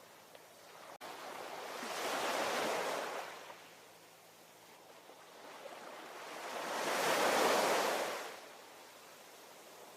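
Ocean surf: two waves break and wash in about five seconds apart, each a rush of noise that swells and fades over a couple of seconds, over a low steady hiss.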